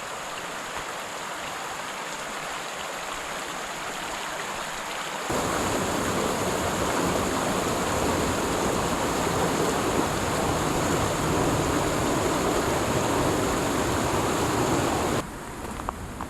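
Mountain creek rushing steadily. It steps up abruptly to a louder, fuller rush about five seconds in and drops back a second before the end.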